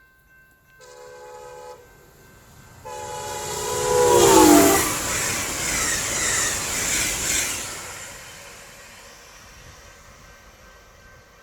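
Amtrak passenger train sounding its horn, a short blast then a longer one whose pitch drops as the train passes. The loud rush of the train going by follows and then fades away.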